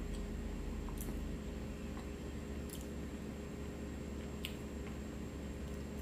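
Quiet, wet mouth sounds of someone chewing chicken pot pie, with a few faint clicks, over a steady low hum.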